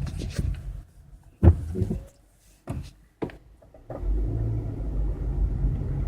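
Car interior road rumble while driving. From about one to four seconds in it falls much quieter, with a few sharp clicks or knocks, then the steady rumble comes back.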